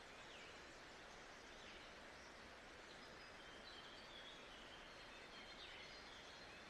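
Faint nature-sounds ambience: a steady hiss with many short high bird chirps scattered over it.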